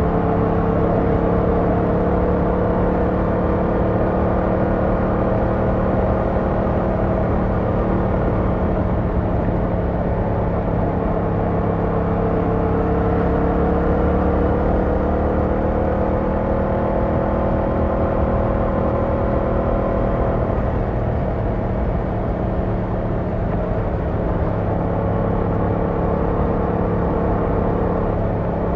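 Yamaha MT-07's 689cc parallel-twin engine and exhaust running under way at a steady cruise, its pitch rising and falling gently with small throttle changes.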